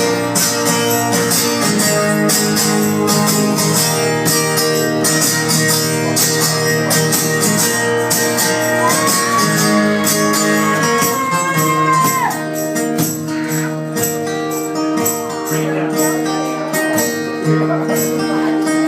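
Live band playing an instrumental break: strummed guitars with tambourine jingles keeping the beat, and a held lead note that bends about halfway through.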